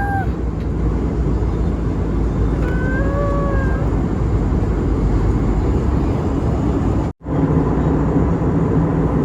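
Steady low rumble of an airliner cabin in flight, engine and airflow noise. It cuts out for an instant about seven seconds in and resumes with a steadier hum.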